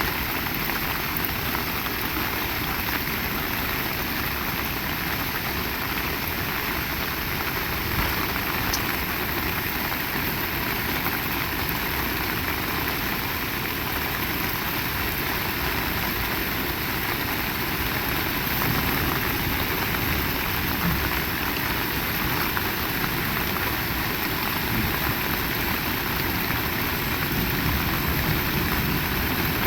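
Heavy rain falling steadily, a dense, even hiss of downpour without let-up.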